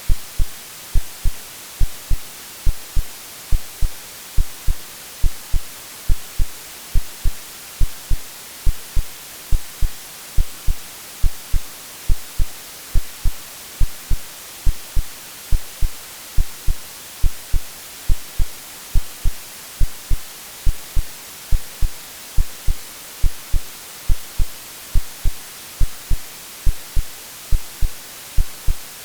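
AI-generated heartbeat sound, a steady lub-dub of low double thumps a little faster than once a second, over a constant white-noise hiss.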